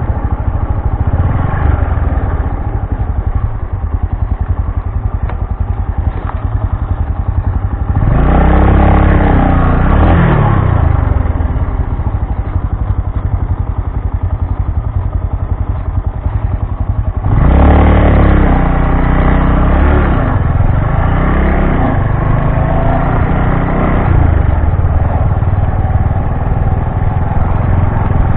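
Bajaj Boxer BM 150 X motorcycle's single-cylinder four-stroke engine running on the move. Its pitch rises and falls in two louder spells of throttle, about 8 seconds in and again about 17 seconds in.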